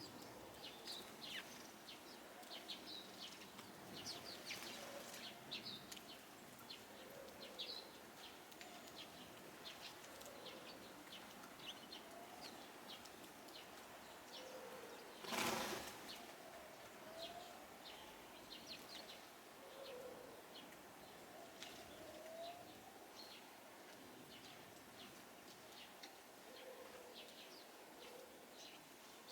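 Small garden birds chirping faintly and repeatedly, short high calls scattered throughout, with one brief louder rushing sound about halfway through.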